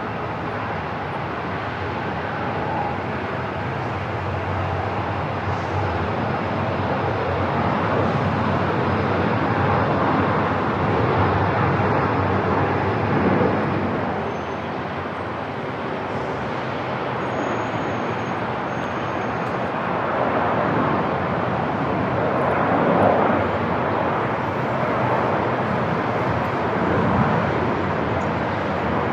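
Airport ambience: a steady wash of rumbling noise that swells and eases slowly over several seconds.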